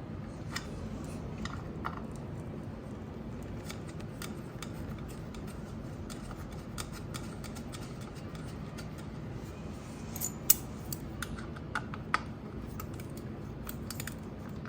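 Irregular small clicks and taps of hands working a bolt and fitting parts on the motorcycle's frame, with a few sharper clicks about ten and twelve seconds in, over a steady low hum.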